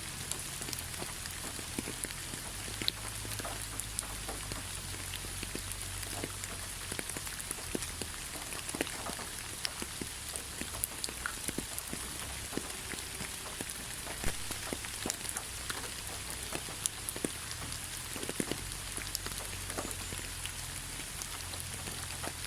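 Steady rain falling on a forest road, an even hiss with many separate drop ticks.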